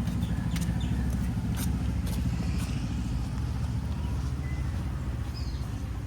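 Low engine rumble of a motor vehicle close by, easing off slowly, with a few light clicks and two short high chirps near the end.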